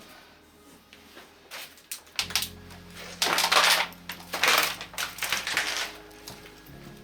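Clattering and rattling of loose hard objects. A few scattered clicks give way to two louder spells of clatter, about three seconds in and again about a second later, with a low steady drone underneath from a couple of seconds in.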